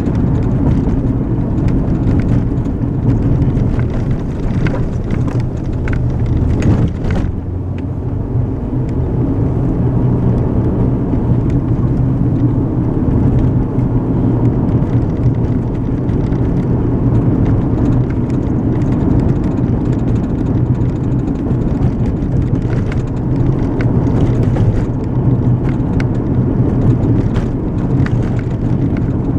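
A car driving, heard from inside the cabin: a steady low rumble of engine and tyre road noise. A few faint ticks come through about five to seven seconds in and again in the second half.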